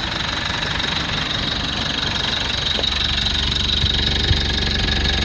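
Mitsubishi Pajero Sport's 2.4-litre 4N15 four-cylinder turbo diesel idling steadily, a little louder from about three seconds in.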